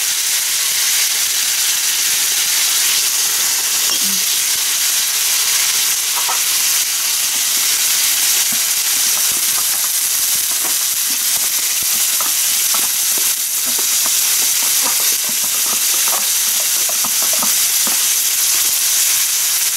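Grated carrot and onion frying in oil in a skillet: a steady sizzling hiss, with faint scattered crackles from about halfway on.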